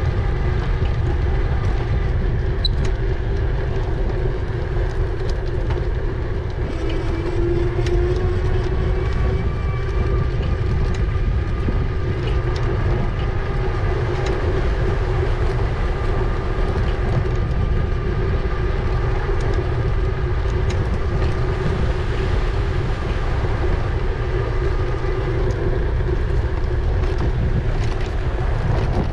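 E-bike riding noise: wind rumbling on the microphone, with a steady whine from the motor that rises in pitch about seven seconds in.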